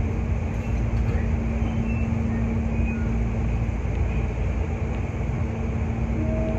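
Hankyu 8300 series electric train running along the line, heard from inside the car: a steady rumble of wheels on the rails with a steady low hum.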